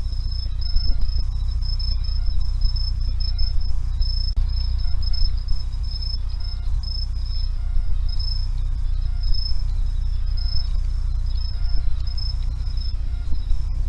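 Forest insects chirping: a high, pulsing trill repeated in short trains, over a steady low rumble, with one sharp click near the end.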